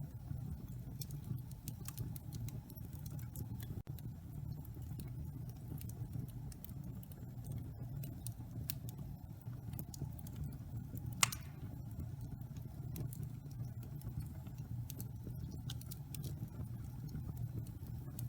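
Wood fire burning in a fireplace: a steady low rumble of flames with scattered small crackles and one louder pop about eleven seconds in.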